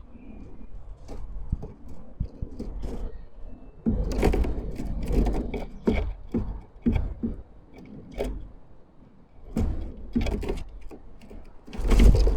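Wind gusting on an outdoor microphone, a low rumble that swells about four seconds in and again near the end, with irregular knocks and taps throughout.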